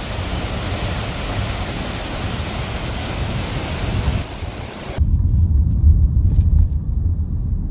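Waterfall's rushing water, a steady hiss. About five seconds in it cuts off suddenly and a low rumble takes over.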